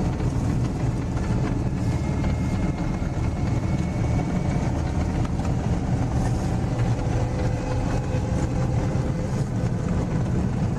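Heavy vehicle engine running steadily, a deep, even rumble with faint whining tones above it.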